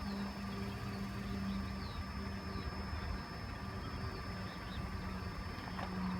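Engine idling with a steady low hum, and a few faint bird chirps above it.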